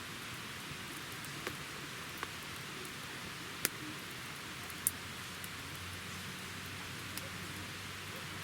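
Wood campfire burning: a steady hiss with scattered crackles and pops, the two loudest pops about three and a half and five seconds in.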